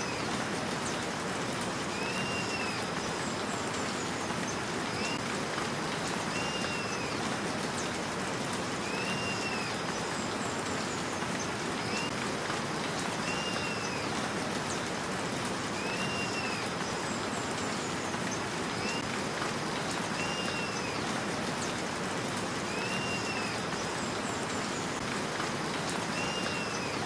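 Steady rain falling. Over it, a short high whistled call that rises and falls repeats about every two seconds, with fainter, higher descending chirps now and then.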